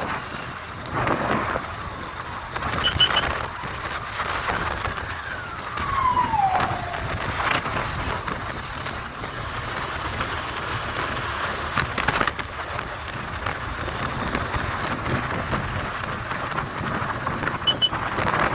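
Wind rushing and buffeting over the microphone on a moving motorcycle, a Honda Hornet 160R, with gusty swings in loudness. About five to seven seconds in, a single tone falls in pitch.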